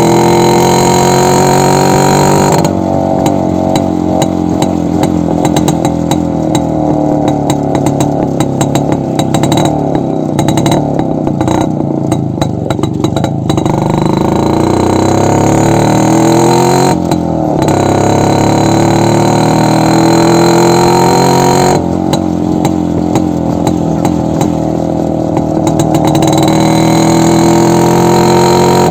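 Yezdi two-stroke motorcycle engine running with its muffler removed, the open exhaust loud and raw, revs rising and falling several times.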